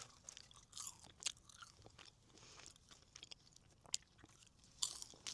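Close-up chewing of crispy French fries: soft mouth sounds with scattered sharp, crisp crunches, the loudest about a second in, about four seconds in and near the end.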